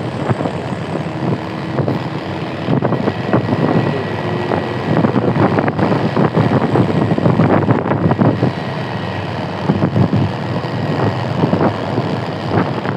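Engine and road noise of a vehicle driving in traffic behind trucks, a continuous busy rumble.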